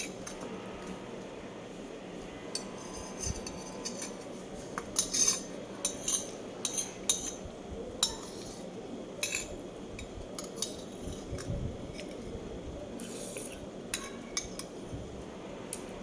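Eating sounds: irregular short clinks and clatters of cutlery against dishes, over a steady low background noise.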